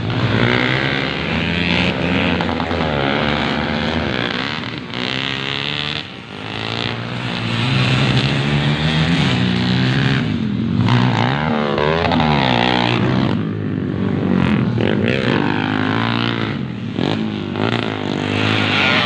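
Motocross dirt bikes' engines revving up and down as they ride the track, the pitch rising and falling again and again with more than one engine overlapping. The level dips briefly about six seconds in.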